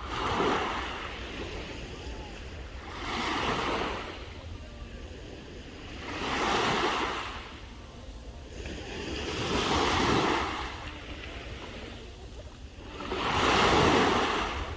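Sea waves washing onto the shore, each swelling and fading about every three and a half seconds, five in all, over a low wind rumble on the microphone.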